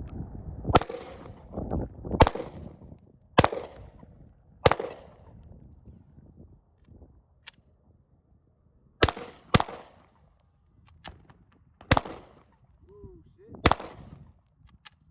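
Glock 21 .45 ACP pistol fired one shot at a time: four shots about a second apart, a pause of a few seconds, then four more at an uneven pace, with a few fainter cracks in between.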